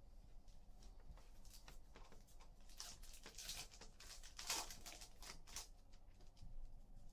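Trading cards being handled: faint rustling and sliding, with a few light clicks and a stretch of louder swishes in the middle.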